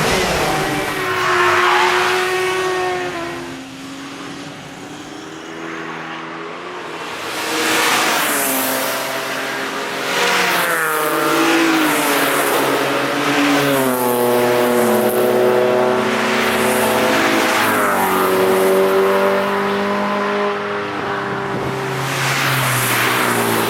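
Several cars passing one after another at speed, engines at high revs. Each engine note falls in pitch as the car goes by, and the passes overlap, so the engine noise never drops away.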